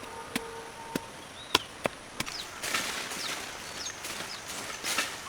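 Five sharp knocks in the first two seconds or so, like blows of a blade on wood, then a stretch of rustling through leaves and brush. Short bird chirps sound in the background.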